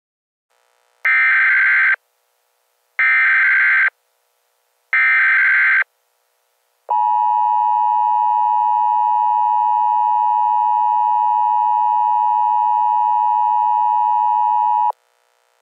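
Emergency Alert System broadcast tones: three data-header bursts about a second long and two seconds apart, then the steady two-tone attention signal held for about eight seconds before cutting off sharply. These tones announce an emergency alert.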